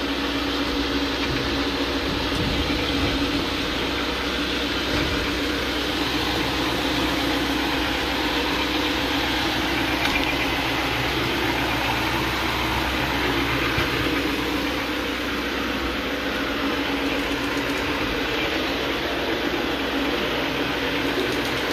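Counter-rotating brush (CRB) carpet machine running steadily: a constant motor hum under the noise of the brushes scrubbing the carpet pile, agitating the pre-treatment into worn, dog-soiled fibres.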